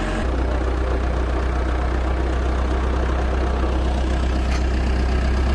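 Engine of an Isuzu Elf crane truck running steadily, with a low drone that steps up in level just after the start and then holds.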